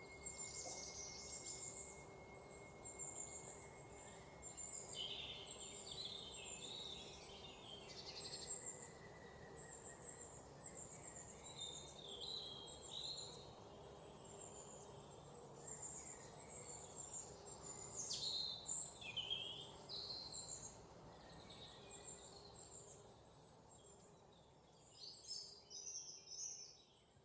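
Several songbirds chirping and trilling together in short high calls, over a soft outdoor background. A thin steady high tone runs under them for the first several seconds. The whole chorus fades out near the end.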